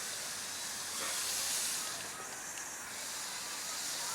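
Steam hissing steadily from a miniature steam locomotive, swelling about a second in and then easing back.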